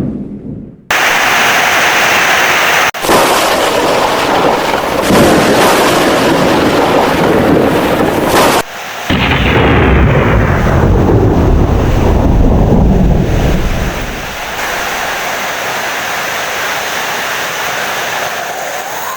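Thunderstorm: loud rain with rumbling thunder, in spliced segments that cut in abruptly about a second in and break off sharply twice. A deep rumble is heaviest in the middle, then eases into steadier rain noise near the end.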